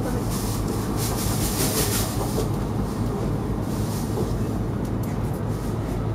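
Running noise of an E5 series Shinkansen heard inside the passenger cabin: a steady low rumble, with a surge of hiss in the first couple of seconds.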